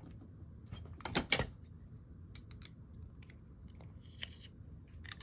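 Small clicks and taps of metal fishing-reel parts and a tool being handled while a part is taken back off the reel, with a sharp pair of clicks about a second in and a few fainter ticks later.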